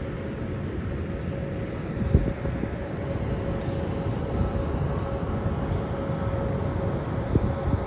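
Jet engines of an Airbus A320 airliner on final approach: a steady rumble with a thin, steady whine. Two brief thumps, about two seconds in and near the end.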